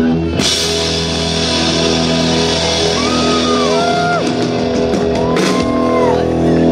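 Live rock band with electric guitars holding a long final chord to end a song, with cymbal crashes and shouts and whoops over it.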